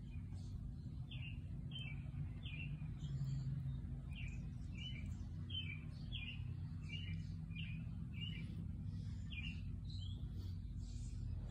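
A small bird chirping over and over, a steady series of short high chirps about one every half second to second, over a low steady background rumble.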